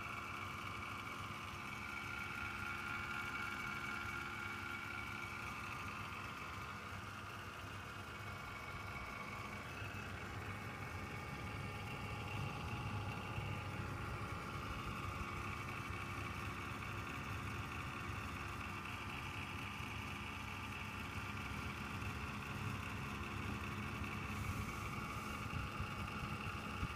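Desktop PC running with a steady abnormal whine over a low hum. The owner believes the whine comes from one of the cooling fans, not the hard disk drive. Once intermittent, it now sounds constantly, which the owner takes as a sign that it is getting worse.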